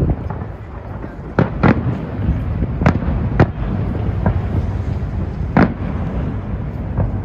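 Firework shells bursting in the sky: about seven sharp bangs at irregular intervals, some with a short echo, over a steady low rumble.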